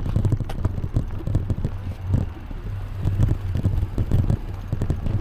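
Wind buffeting the microphone of a moving bicycle, a steady low rumble, with irregular rattles and knocks from the bike riding over the pavement.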